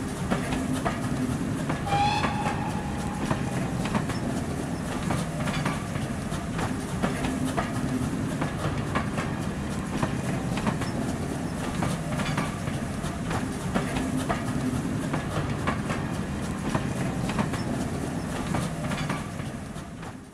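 A train's passenger coaches rolling past, with a steady rumble and repeated clicks of the wheels over rail joints. A short whistle sounds about two seconds in.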